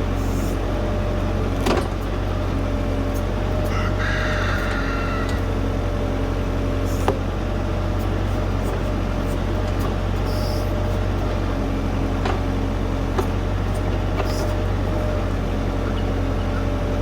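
LS U5030 tractor's diesel engine running steadily while the backhoe works, with a few sharp knocks and a brief squeal about four seconds in.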